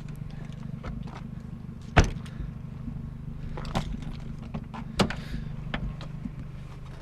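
A few sharp knocks and clanks of metal parts being handled, the loudest about two seconds in and another about five seconds in, over a steady low hum.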